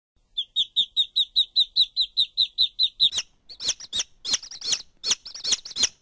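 Duckling peeping: a fast, even run of high, falling peeps, about five a second. From about three and a half seconds in, the peeps come louder and more irregular.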